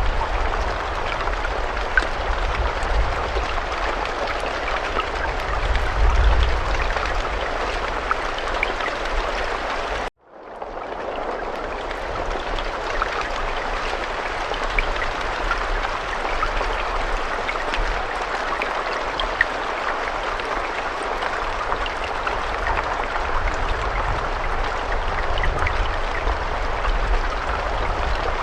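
Steady rain: a dense, even hiss of falling rain with scattered sharper drop ticks and a low rumble underneath. About ten seconds in it cuts out suddenly, then fades back in over about a second.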